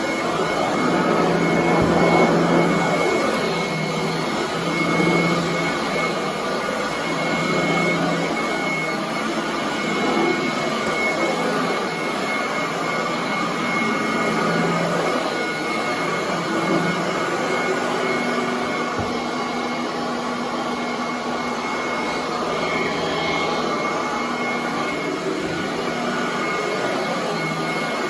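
Commercial vacuum cleaner running steadily while carpet is vacuumed, a dense motor-and-airflow noise with a thin high whine on top.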